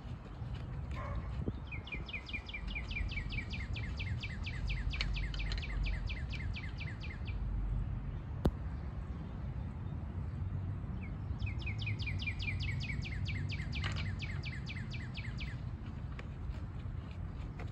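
A songbird singing two long, rapid trills of repeated down-slurred notes, the first from about two seconds in to about seven, the second from about eleven to fifteen seconds, over a steady low rumble. A single sharp click comes about eight and a half seconds in.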